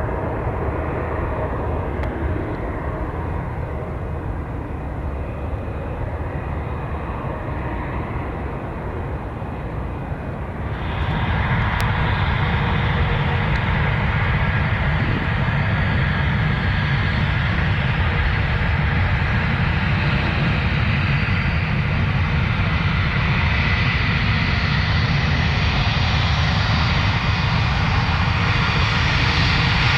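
Jet airliner engines running with a steady roar. About a third of the way in the sound jumps suddenly louder and brighter, then holds and slowly builds.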